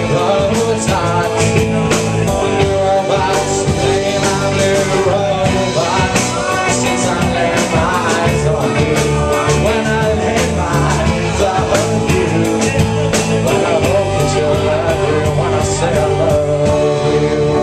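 Live rock band playing loudly, a dense mix of sustained instrument tones over sharp beats that keep going.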